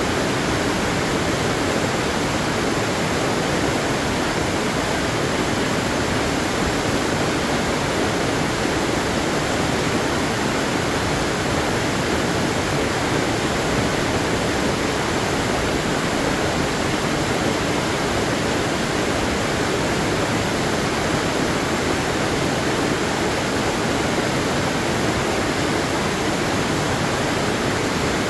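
Waterfall: a steady, unbroken rush of falling water, an even wash of noise with no single splashes standing out.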